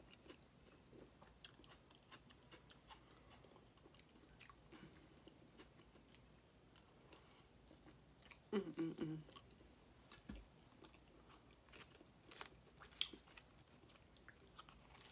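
Faint chewing and small wet mouth clicks of a person eating cheesy grits off a fork, with a short hum a little over halfway through.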